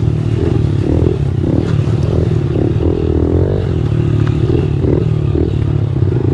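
Engines running: a steady low idle underneath, and another engine revved up and down again and again.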